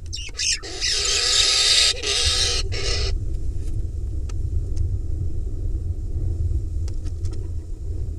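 Barn owl nestling giving long, harsh hissing begging calls in a few bursts with short breaks; they stop about three seconds in. A steady low rumble then continues, with a few faint ticks.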